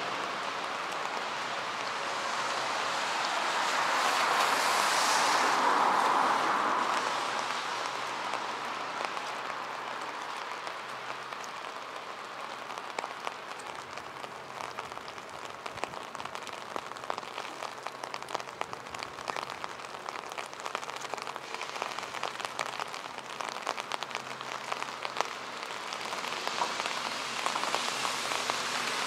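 Steady rain falling on wet city streets, with a louder rushing swell about four to six seconds in, then a dense patter of separate drops landing close by.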